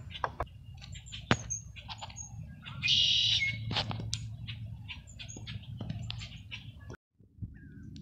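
Birds chirping and calling, with many short chirps and one loud, harsh call about three seconds in, over a steady low rumble. The sound drops out for a moment near the end.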